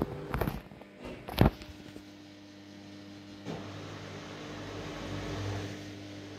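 Haier HW60-10636A washing machine running with a steady hum, after a couple of sharp knocks near the start and with a single click about three and a half seconds in.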